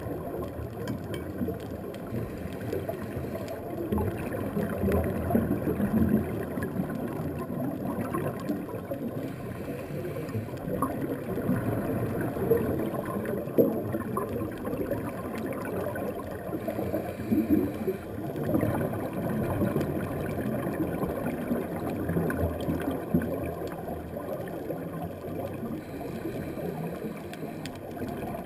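Underwater sound through the camera housing: a diver's scuba regulator with exhaled bubbles gurgling. It rises in swells every few seconds over a low, steady wash of water.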